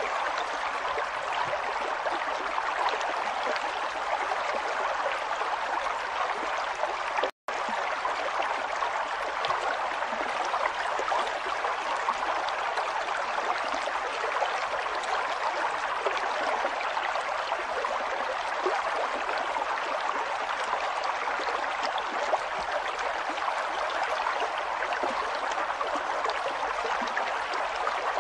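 River water flowing steadily, a constant rushing, babbling stream. The sound drops out completely for an instant about seven seconds in.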